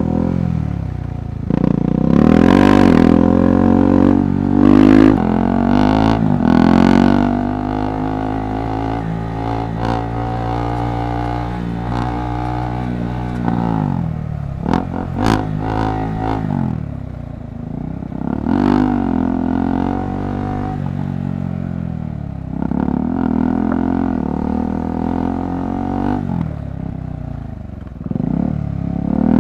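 KTM 390 Adventure's single-cylinder engine revving up and down with the throttle, pitch rising and falling repeatedly and several sharp surges. A few sharp knocks clatter through about halfway.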